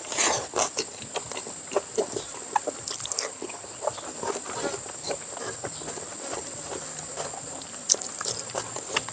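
Close-up wet chewing and mouth sounds of someone eating fatty smoked pork, with many short irregular smacks and clicks.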